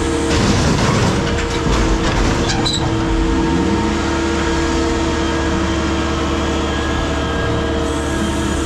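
Steady running noise of a vehicle: a low hum with a few steady tones over road noise, with some clicks and rattles in the first three seconds.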